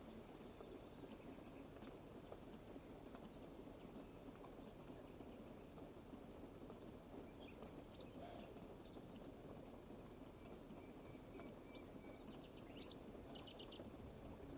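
Soft, steady rain patter, with faint, brief bird chirps starting about halfway through.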